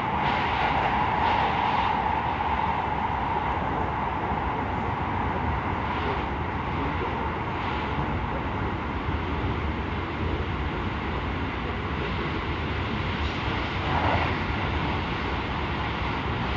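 A train's steady running noise, heard from inside the carriage as it travels between stations. A tone that is strong at the start fades over the first few seconds, and there is a brief swell about 14 seconds in.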